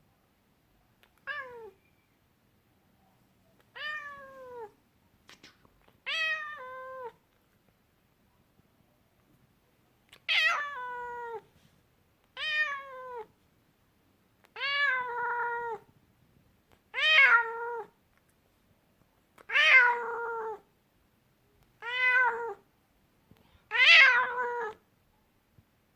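Scottish Fold cat meowing over and over, about ten long meows each falling in pitch at the end, one every two seconds or so, getting louder from about ten seconds in.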